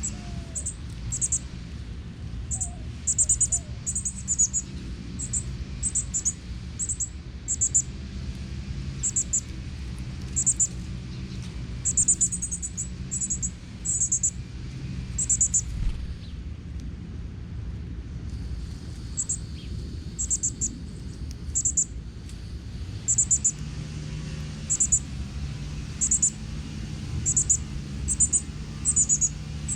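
Short, very high, thin bird chirps, singly and in quick pairs, repeating every second or so with a pause of a few seconds midway, over a steady low rumble.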